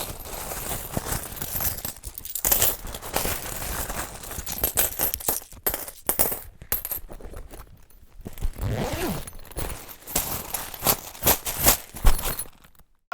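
Coins clinking and rattling in quick, irregular clatters, with a brief sliding tone about nine seconds in.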